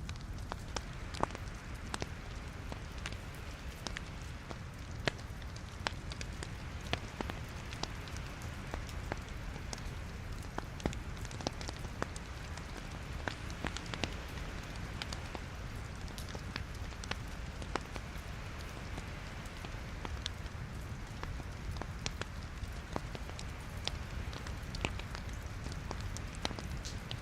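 Wood logs burning in a fireplace, crackling with many irregular sharp pops over a steady low rumble and hiss.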